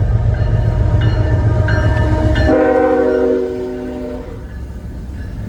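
Freight train rumbling low and steady, then, about halfway through, the rumble cuts off and a locomotive air horn sounds one chord-like blast of under two seconds.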